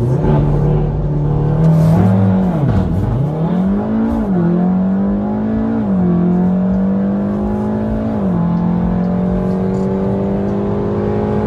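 Volkswagen Golf 7 R's turbocharged 2.0-litre four-cylinder engine under hard acceleration: revs climb in each gear and drop sharply at each upshift, several times, the climbs getting slower in the higher gears.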